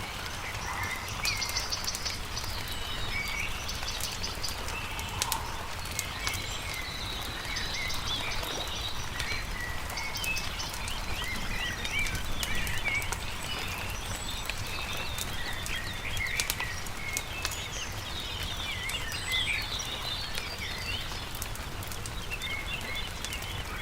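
Small birds chirping and trilling in a busy chorus over a crackling campfire, with scattered sharp pops and a steady low rumble underneath.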